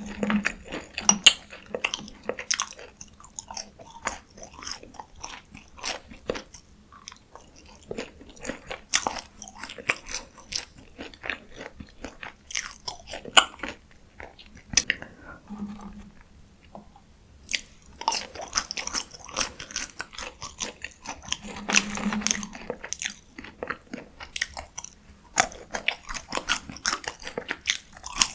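Close-miked eating: biting into and chewing crunchy food, a dense, irregular run of crisp crunches and mouth clicks, with a short pause a little past halfway.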